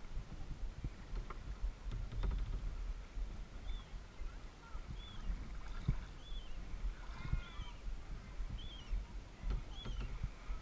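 Kayak on open water: a low rumble of water and wind on a GoPro microphone, with scattered knocks. From about three seconds in, a bird calls with short, high, arched chirps roughly once a second.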